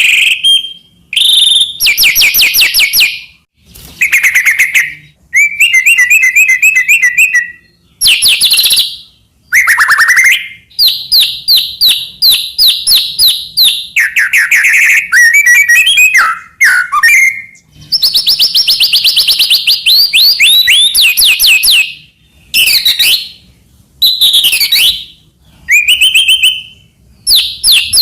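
White-rumped shama in full song: a loud, unbroken string of varied phrases, each about a second long with short pauses between. The phrases mix rapid trills, quickly repeated whistled notes and downward-sweeping chirps.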